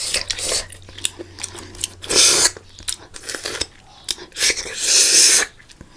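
Close-miked eating: chewing with many short wet clicks and smacks, and two longer hissing sucks or slurps, one about two seconds in and a longer one near the end.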